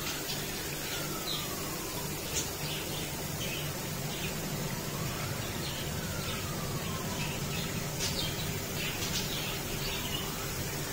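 Steady rush of running water, as from the paludarium's water feature, with small birds chirping in short high notes scattered through. A faint whistle-like tone rises and falls slowly about every five seconds.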